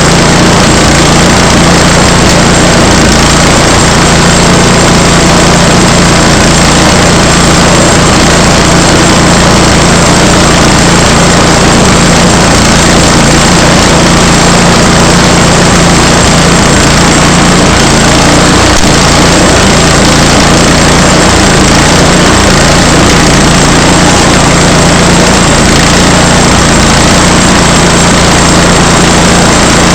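Small gasoline engine of a log-milling saw running steadily and loudly through a cut.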